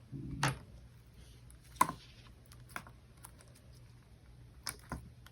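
Slime being squished and poked by hand, giving scattered sharp clicks and pops, about six in all with quiet between.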